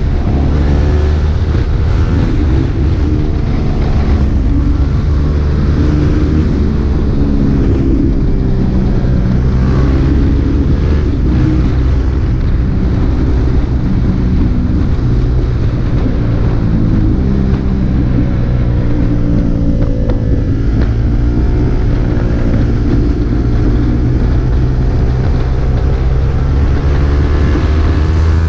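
KTM RC 390's single-cylinder engine running through an Akrapovic exhaust under way, its pitch rising and falling several times as the revs change.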